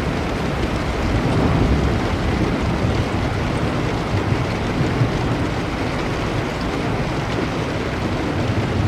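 Steady downpour of rain with a continuous low rumble underneath, no separate thunderclaps standing out.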